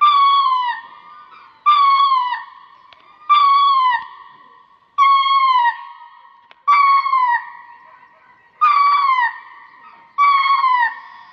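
Ring-tailed lemur calling over and over, seven loud, evenly spaced calls, each a pitched cry that drops in pitch at its end and trails off.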